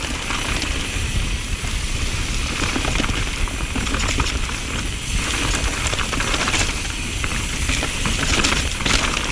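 Mountain bike rolling fast down a damp trail: tyre noise over wet dirt with many small clicks and rattles from the bike, and wind rumbling on the microphone.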